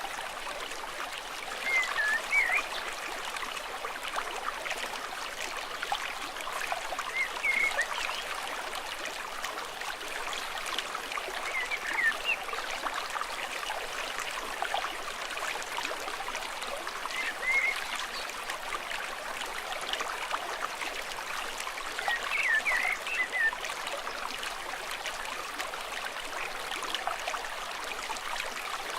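Stream running with a steady rush, while short high chirping calls come in little clusters about every five seconds.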